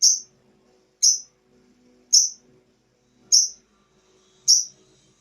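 A lovebird giving short, shrill chirps, one about every second, five in a row.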